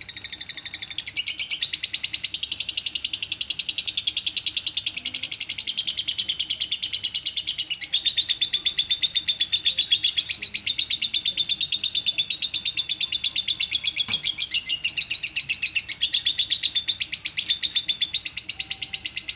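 Lovebird singing a long, unbroken chattering trill of rapid high chirps, many per second, which keeps going without a pause.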